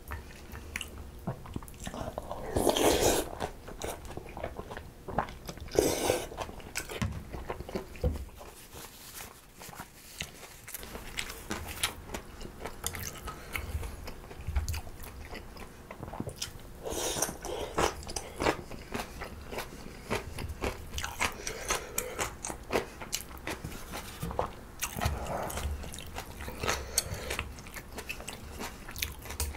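Close-miked chewing and crunching of mulhoe: raw fish slices, crisp vegetables and noodles in icy broth, with many small sharp crunches and wet mouth sounds. A few louder, longer sounds come about 3, 6 and 17 seconds in.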